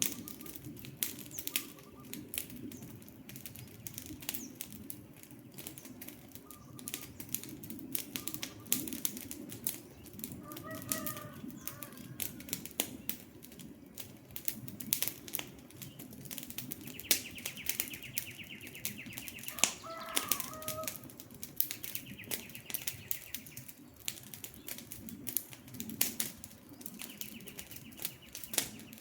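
Wood campfire crackling with frequent sharp pops over a low rumble of flame. Birds call now and then, including a fast high trill heard several times.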